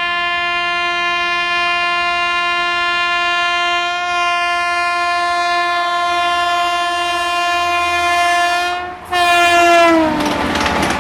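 WAP-7 electric locomotive's horn sounding one long, steady blast. Near the end it breaks off for a moment, comes back and slides down in pitch as the locomotive passes. The clatter of the passing train then takes over.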